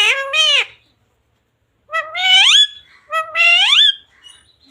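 Pet parrot vocalising: three drawn-out, high-pitched calls, each rising in pitch at the end.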